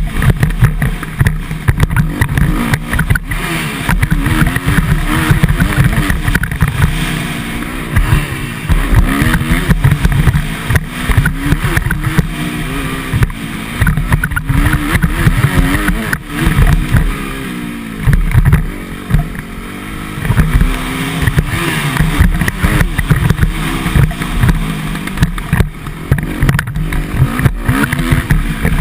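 Motocross bike engine revving up and down over and over as it accelerates and shifts around the track, with heavy wind buffeting on the microphone.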